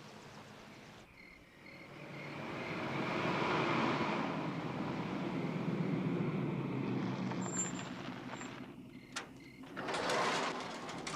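A motor vehicle drives up at night among chirping crickets: its engine and road noise grow louder over a few seconds, then ease off. A few clicks and a short rush of noise come near the end.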